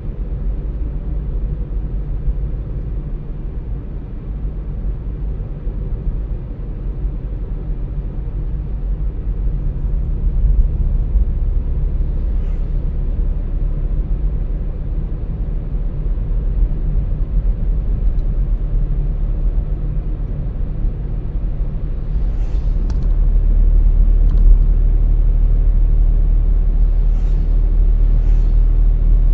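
A car's low road and engine rumble while driving, heard from inside. It runs steadily and grows louder about two-thirds of the way through, with a few faint ticks near the end.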